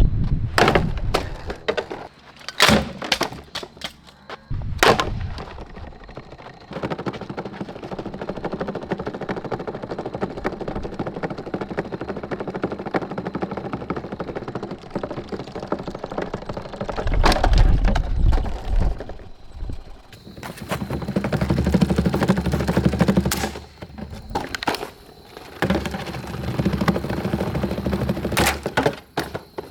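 Windmere table fan being smashed: a few sharp cracking impacts, then a long stretch of rapid continuous clatter, then more heavy thuds and breaking cracks.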